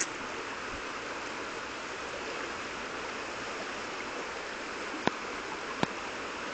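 Swollen river in flood rushing, a steady hiss of fast-moving water. Two short sharp clicks about five seconds in and just before six seconds.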